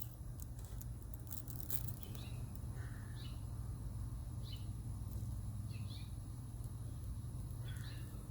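Scattered short bird chirps, about five spread over several seconds, over a steady low background hum.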